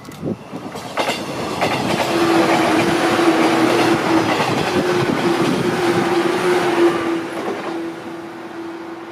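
A train passing close by: the noise builds over the first two seconds, wheels clatter over rail joints under a steady hum, and it fades near the end.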